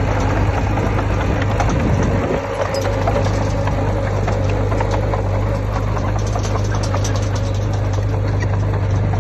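Diesel engine of heavy earthmoving equipment running steadily with a deep hum, with light clanks throughout and a short dip in level about two seconds in.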